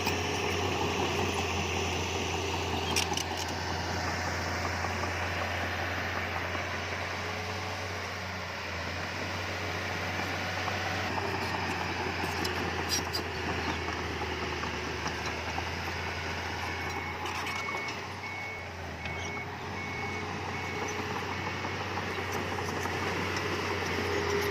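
Heavy earthmoving machinery running steadily on its diesel engine. About two-thirds of the way in, a back-up alarm sounds a short series of high beeps, about one a second.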